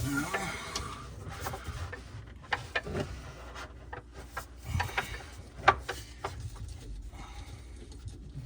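Handling noise from a water supply line and its fittings: tubing rubbing and scattered small clicks of parts, with one sharper click about five and a half seconds in.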